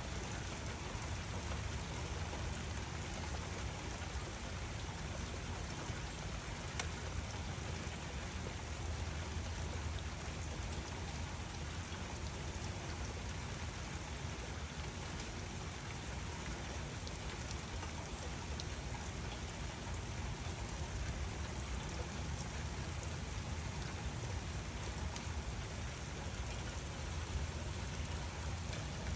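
Steady rainfall: an even hiss of rain with a constant low rumble underneath and a few sharper single drop ticks.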